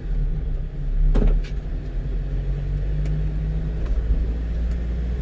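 1-ton truck driving, heard from inside the cab: a steady low engine and road hum, with a single knock about a second in.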